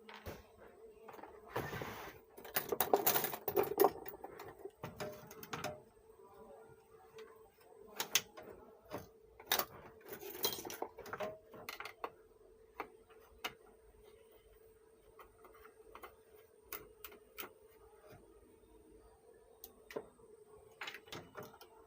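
Clicks, knocks and scraping of tools and metal parts being handled on an opened power amplifier under repair. The sounds are busiest about two to four seconds in and again around ten seconds, with sparse single clicks in between, over a faint steady hum.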